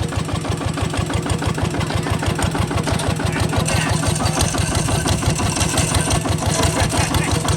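Kubota RT 140 DI single-cylinder diesel engine running steadily with a rapid, even firing beat, getting a little louder and harsher from about four seconds in.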